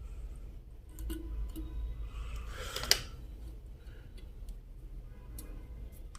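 Small clicks and handling noises of kettle parts and test wires being worked by hand, with one sharp click about three seconds in, over a low steady hum.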